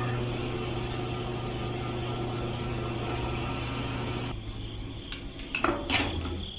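A small electric motor running with a steady hum, which drops off about two-thirds of the way through; a few light clicks near the end.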